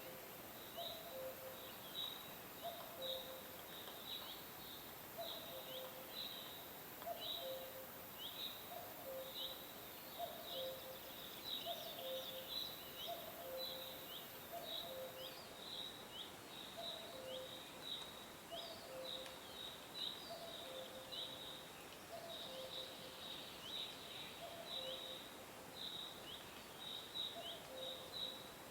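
Birds chirping: a dense run of short, high, downward-sliding chirps, several a second, over a lower two-note call that repeats steadily throughout. A faint high hiss stops about halfway through.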